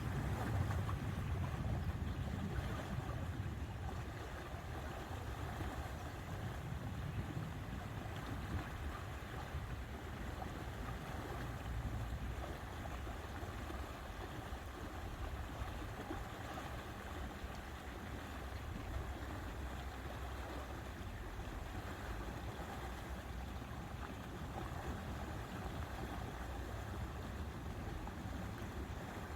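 Lakeside ambience: steady wind rumble on the microphone with the wash of water, a little stronger in the first few seconds.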